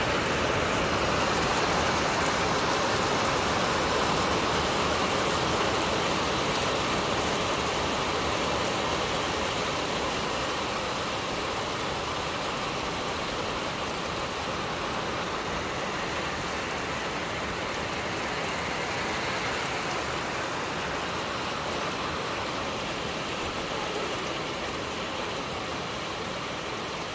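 Very heavy rain falling steadily, a dense even hiss that eases a little over the span.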